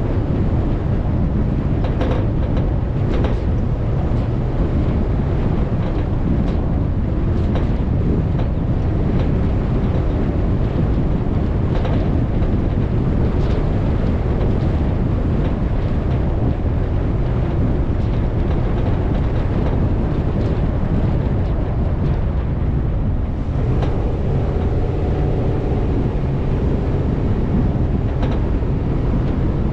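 Off-road vehicle engine running steadily under heavy wind buffeting on the action-camera microphone, with scattered short knocks. A steady engine tone rises out of the rumble near the end.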